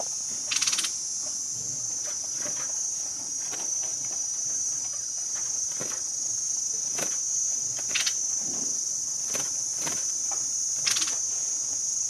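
Insects keep up a steady high-pitched drone. A few short, sharp chirps stand out about half a second in, near the middle-end, and again near the end.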